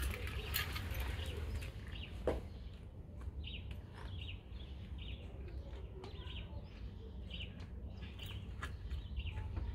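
Birds chirping in short calls, several a second, with rustling and a single sharp click about two seconds in.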